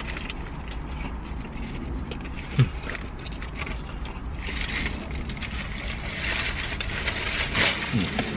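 Eating sounds inside a car: chewing and smacking, sandwich paper rustling a few times, and two short 'mm' murmurs, over a steady low in-car hum.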